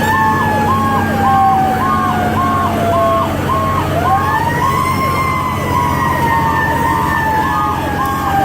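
Fire truck sirens sounding together. A mechanical wail siren, the Federal Q, winds up quickly and then slowly coasts down in long cycles of about four seconds. An electronic siren pulses up and down about twice a second over it, with the truck's engine droning low underneath.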